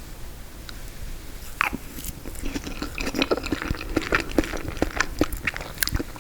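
Close-miked biting and chewing of frozen tiramisu, with a dense run of sharp, clicky crunches starting about a second and a half in.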